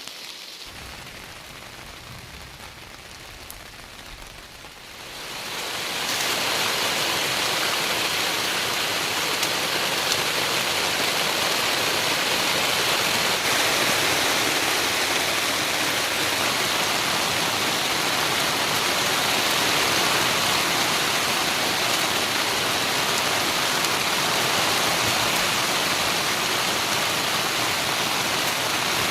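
Steady rushing hiss of water, rather quiet for about the first five seconds, then swelling quickly to a louder level that holds evenly.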